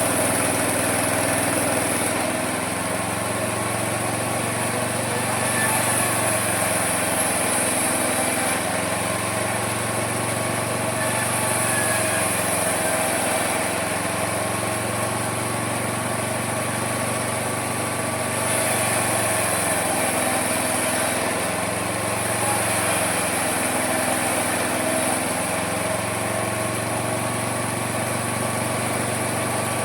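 Homemade mini sawmill running steadily while cutting wood, its motor pitch sagging and recovering every several seconds as the load on the blade changes.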